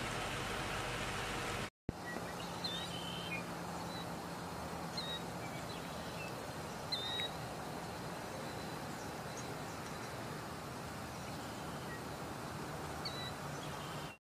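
Quiet outdoor ambience, a steady hiss with a few short, high bird chirps scattered through it. The sound drops out briefly near two seconds in.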